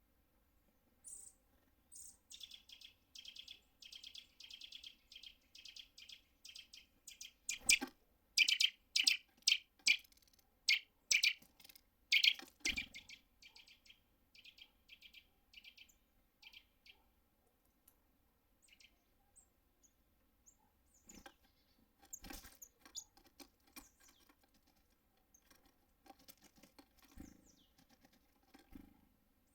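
Small songbirds at a feeder calling in a fast run of short, high chirps for the first half, with sharp knocks and taps mixed in and several dull thumps. Scattered calls and taps follow in the second half.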